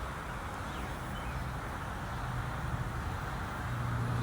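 Outdoor background noise with a steady low hum that grows louder near the end, and a couple of faint bird chirps about a second in.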